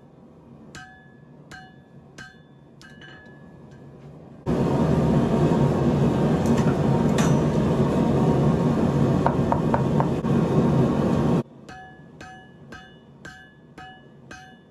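Hammer striking hot Damascus steel on an anvil while forging a knife blade, evenly spaced ringing blows at about one and a half a second. A loud, steady rushing noise cuts in abruptly after about four seconds and stops just as suddenly near the end. The ringing hammer blows then resume at about two a second.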